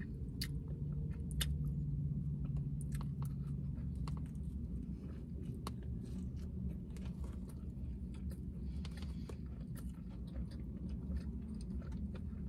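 Close-miked chewing and lip-smacking of a falafel pita sandwich, with many short wet mouth clicks throughout, over a low steady hum.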